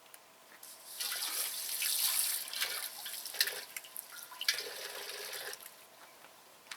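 Water running and splashing for about four and a half seconds, starting suddenly about a second in and stopping near the end.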